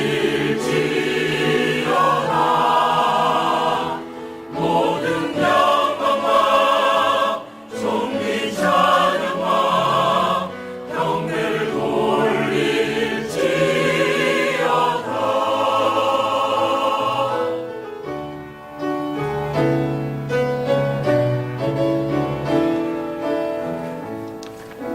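Church choir singing a hymn with instrumental accompaniment. About two-thirds of the way through, the voices stop and a piano plays on alone.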